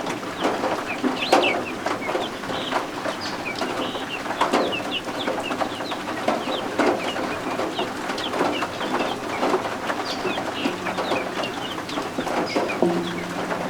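Baby guinea fowl keets peeping: many short, high chirps overlapping throughout, over a steady hiss of rain.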